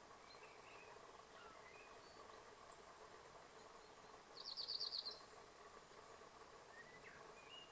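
Small birds calling faintly with scattered high chirps, and one loud, rapid trill of about ten quick notes lasting under a second, about four seconds in.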